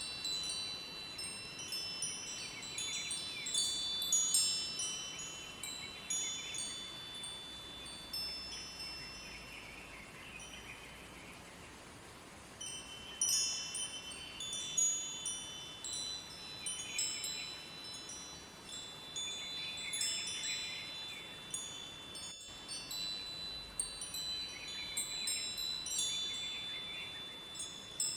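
Wind chimes ringing, many high tones struck in irregular clusters that thin out to a quieter lull in the middle, over a faint steady rush of running river water.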